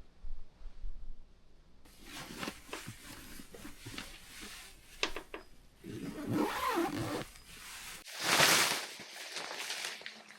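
Camping gear being handled: fabric rustling with light clicks and knocks, and a louder rustling rush about eight seconds in.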